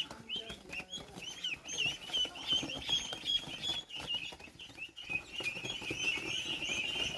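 A group of ducklings peeping: short high peeps repeating several times a second, growing into a dense, overlapping chorus near the end.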